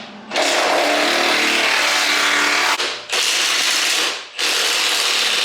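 Welder laying short welds on the sheet-metal patch panel of a truck's rocker and cab corner: a loud, steady hiss in three runs, broken by brief pauses about halfway through and again a little later.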